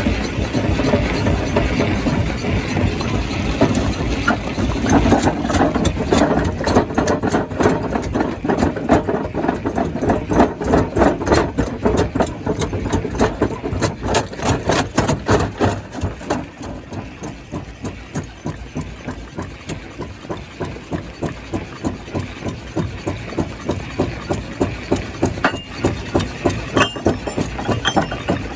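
Stone crusher plant machinery running, with a fast, even rhythmic pulsing. The sound drops somewhat about halfway through.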